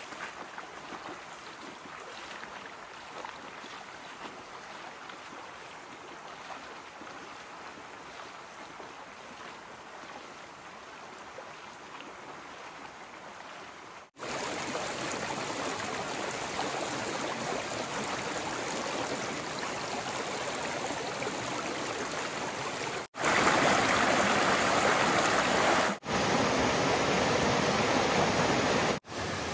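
Steady rushing of flowing stream water. It jumps suddenly to a louder rush about halfway through, and changes level abruptly twice more near the end.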